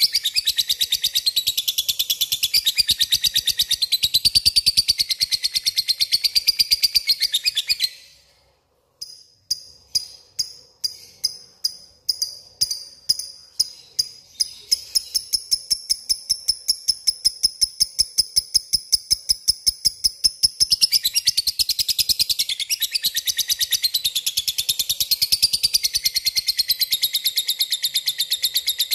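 Lovebird's 'ngekek' song: a long, rapid, high-pitched chattering. It breaks off briefly about eight seconds in, returns as separate chirps that speed up into a steady fast trill, and turns back into dense chatter about two-thirds of the way through.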